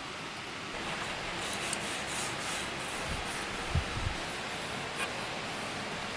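Wood being sanded or rubbed in repeated strokes, with a couple of soft knocks about four seconds in.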